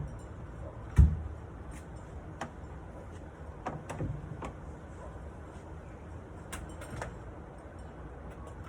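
Handling of a wooden nightstand while its hardware is being removed: one heavy thump about a second in, then scattered light clicks and knocks.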